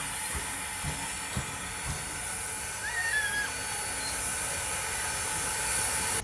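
Norfolk and Western 475, a 4-8-0 steam locomotive, giving off a steady hiss of escaping steam, with a few faint low thumps early on. The hiss cuts off suddenly at the end.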